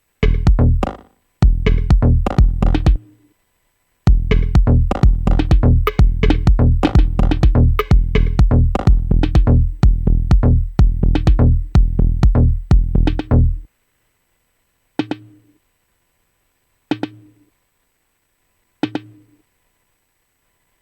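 Dub-techno drum-machine groove from Native Instruments Maschine, played in two short bursts and then a longer stretch of repeating beats that stops suddenly. Three single hits follow, about two seconds apart, each with a short low tone.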